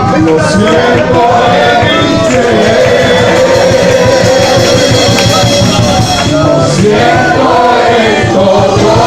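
Voices singing a praise song over loud, steady instrumental accompaniment.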